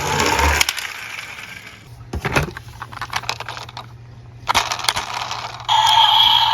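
Small toy cars clattering and rolling down a slope, with bursts of sharp clicks. A steady high tone comes in near the end.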